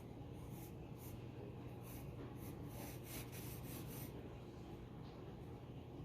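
Graphite pencil scratching on paper in a run of short strokes, coming quicker around the middle and stopping about four seconds in, over a low steady hum.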